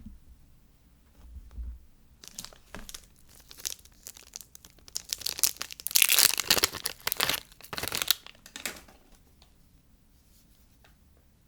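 Soap packaging being torn open and crinkled by hand, a run of crackling and tearing that is loudest in the middle and fades out after about nine seconds.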